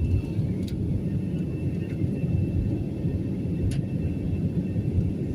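Steady low rumble of a moving vehicle heard from inside its cabin, with a faint high steady tone and a few light clicks.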